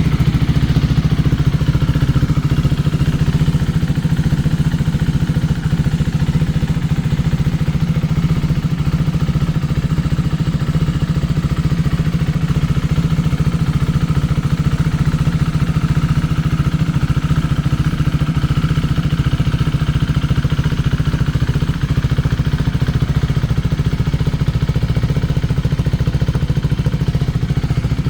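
KTM 390 Duke's single-cylinder four-stroke engine idling steadily.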